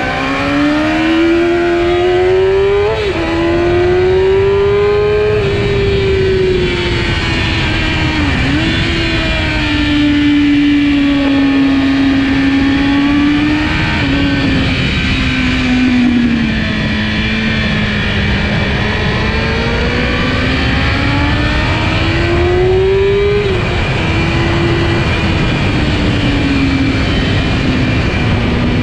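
Kawasaki ZX-10R's inline-four engine running hard on track. Its pitch climbs and falls over several seconds at a time, with a few sharp breaks at gear changes.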